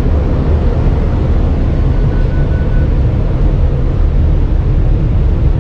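Automatic car wash's overhead air dryer blowing a loud, steady rush of air over the car, heard from inside the cabin: the drying stage after soap and rinse.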